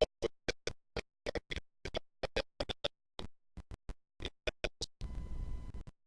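Choppy, broken-up recording: short fragments of sound cut off by complete dropouts several times a second, with one longer unbroken stretch near the end. This is a fault in the audio recording.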